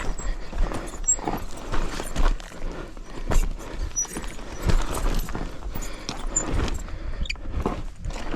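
Dirt bike rolling down a rocky trail: an irregular clatter of knocks as tyres, suspension and loose rocks strike, several sharper hits through the stretch.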